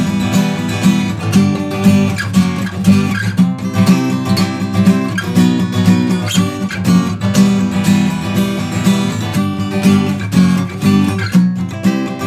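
Acoustic guitar strummed across all strings in the galop pattern, a quick, even galloping rhythm of chords with no singing.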